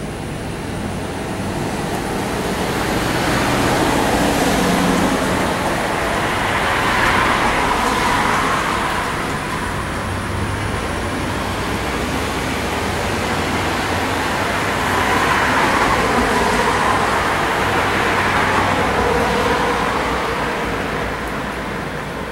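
Road vehicle noise, a continuous hiss that swells and fades twice: once a few seconds in and again past the middle.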